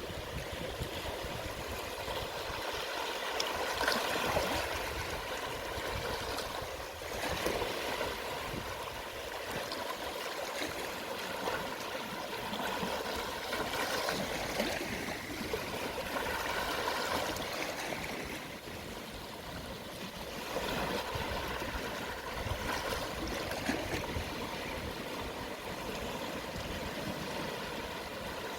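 Small, gentle sea waves washing onto a shallow shore at low tide: a steady fizzing wash that swells softly every few seconds as each wave comes in.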